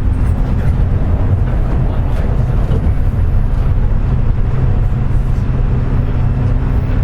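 Running noise inside a JR West 201 series electric train's motor car under way: a steady low rumble with a low hum that comes in during the second half and a second, higher hum near the end. The car's motor bearings are damaged by electrical pitting, which gives it a loud jet-like whine when running.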